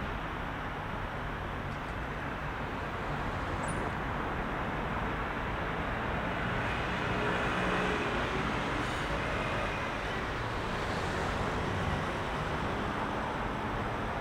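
Dense rush-hour road traffic: a steady wash of car engines and tyre noise, swelling slightly in the middle as vehicles pass close.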